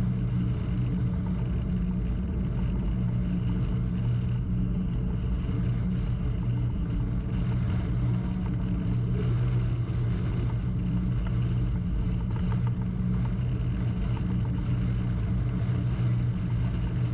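Crew launch's engine running at a steady pitch, a constant low drone heard on board the boat.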